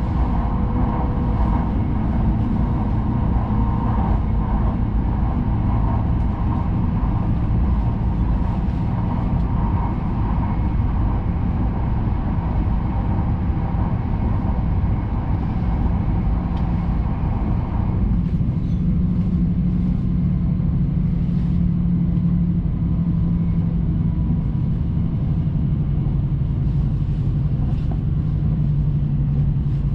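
Steady running noise of a Hayabusa Shinkansen train at speed, heard inside the passenger cabin: a low rumble with a faint hum. About two-thirds of the way through the higher hum fades, and a stronger low hum comes in that slowly sinks in pitch.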